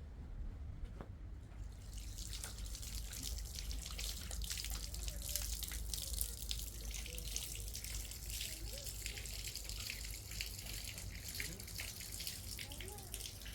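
Water running and splashing, which starts about two seconds in as a steady hiss full of small spattering sounds.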